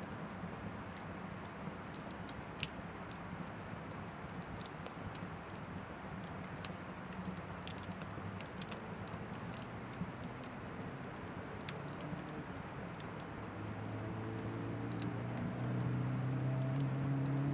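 Oak firewood burning in an Anevay Frontier Stove Plus wood stove, crackling and popping irregularly with a few sharper pops. A low hum under it swells over the last few seconds.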